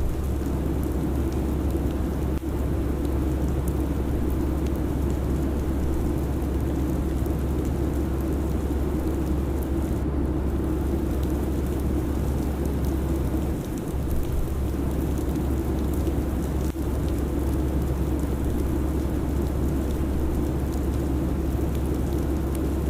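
Steady airliner cabin ambience: an even low rumble with a broad hiss of engine and air-flow noise.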